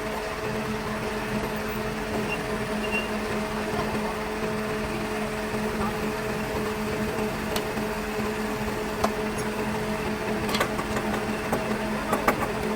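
A machine motor humming steadily at a constant pitch, with a few light clicks or taps near the end.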